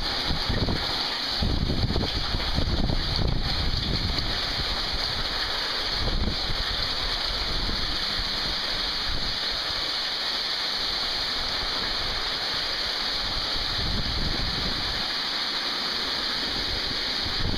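Heavy rain pouring steadily, with gusts of wind buffeting the microphone, strongest in the first few seconds.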